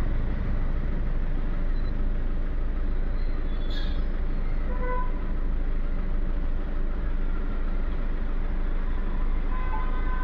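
Volkswagen Polo diesel engine idling steadily, warmed up for injector adaptation. A brief high click comes about four seconds in.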